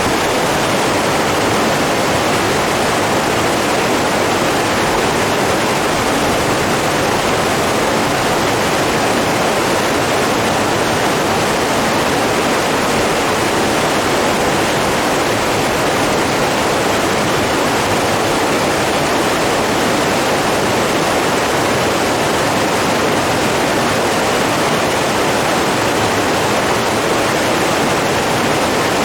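Running water, a stream or small waterfall, making a steady, unbroken rush with no pauses or separate splashes.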